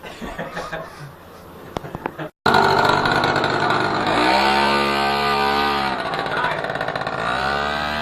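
Minibike engine revving hard. Its pitch climbs about four seconds in, holds, drops near six seconds, then climbs again as the throttle is opened once more. Before it, a couple of seconds of quieter clicks and voices end in a sudden cut.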